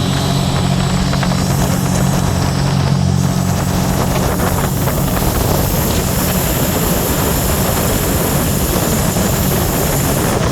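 Scarab 165 ID jet boat running at speed: its three-cylinder Rotax 1503 4-TEC engine drones steadily under a loud rush of wind and water. The engine tone is clearest in the first half.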